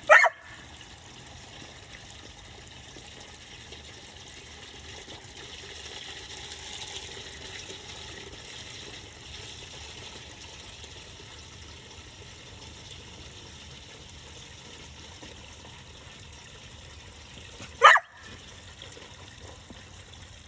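Steady hiss of running water, with two short, sharp dog barks standing out above it: one right at the start and one near the end.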